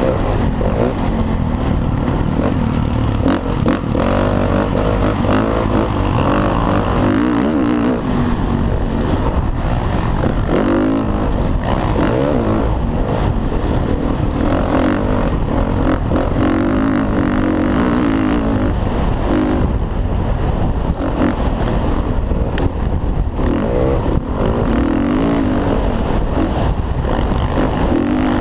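Motocross dirt bike engine running hard, its pitch repeatedly rising and falling as it revs up and drops back, over a constant loud low rumble.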